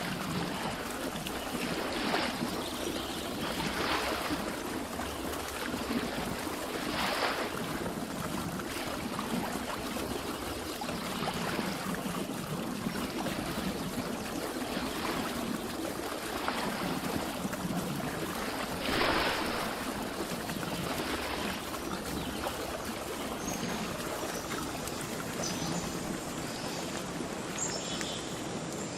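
Running water: a steady rush with louder swells every few seconds. Faint high chirps near the end.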